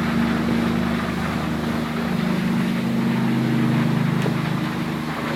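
An 80-foot wooden cruise boat's engine running with a steady low drone under the rush of water and wind.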